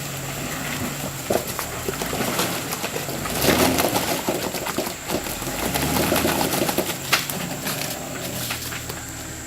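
Jeep Rubicon engine running low and steady, with scattered knocks and a louder stretch of rough noise about three and a half seconds in.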